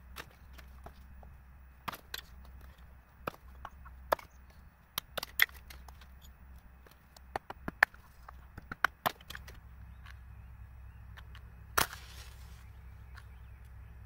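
Sharp woody knocks and cracks at irregular intervals, sometimes two or three in quick succession, with one longer rasping crack about twelve seconds in.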